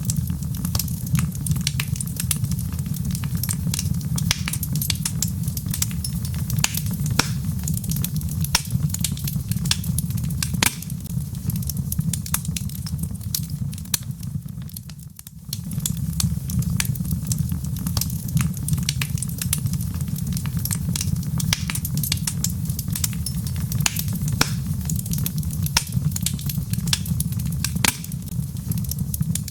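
Log fire burning in a fireplace: frequent sharp crackles and pops over a steady low rumble of flame. The sound dips briefly about halfway through, then resumes.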